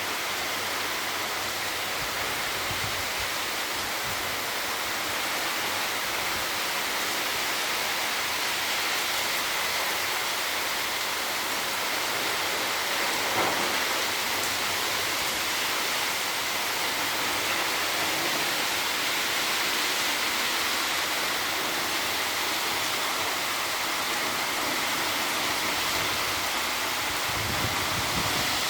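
Steady heavy rain falling, an even continuous hiss, with one brief sharp tap about halfway through.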